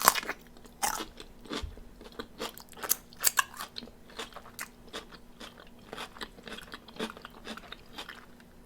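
Close-up chewing and crunching of crispy fried chicken wings: a string of irregular sharp crunches with wet chewing between them.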